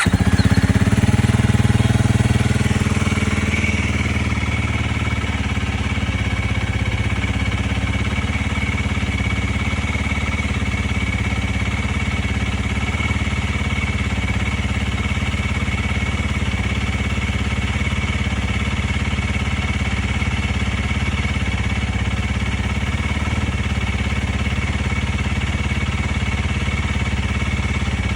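Honda CRF300L single-cylinder engine idling through a Graves full exhaust system, just after starting. It runs a little louder for the first few seconds, then settles to a steady, even idle.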